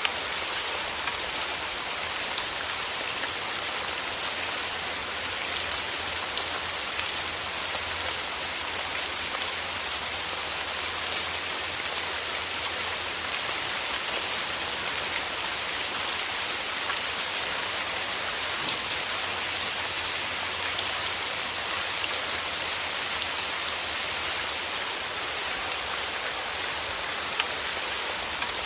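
Steady rain falling, a dense even hiss of drops with fine individual patters on surfaces.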